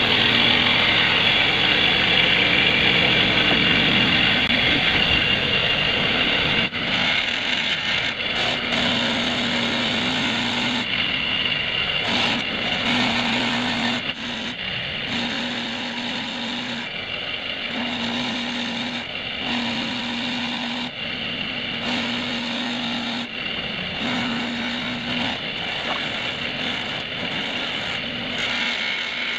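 A power tool's motor running continuously, with a low hum that comes and goes in roughly one-second stretches from about nine seconds in.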